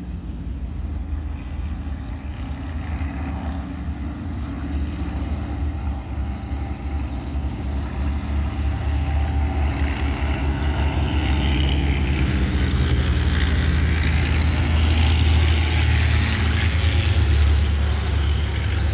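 Vintage Indy-style race cars running on the track, their engine noise building and growing louder over the second half, loudest near the end.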